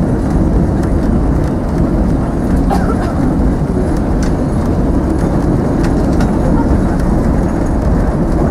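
Narrow-gauge train running, heard from one of its open passenger wagons: a steady rumble of the wheels on the track with scattered clicks.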